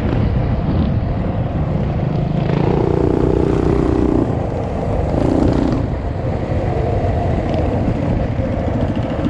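Small motorbike engines running: a constant low rumble, with a steadier engine note that holds for about a second and a half a few seconds in, then again for about half a second.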